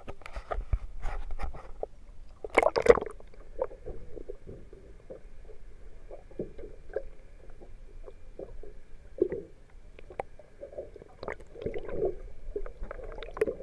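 Light irregular knocks and clatter on a small aluminum fishing boat, with a louder cluster of knocks about three seconds in, and water sloshing against the hull. A faint steady high whine runs through the middle.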